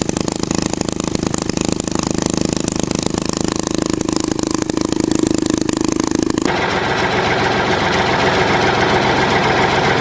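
Small diesel engine of a homemade mini tractor running steadily with a fast, even beat. About six and a half seconds in, the sound changes abruptly to a different, duller engine noise.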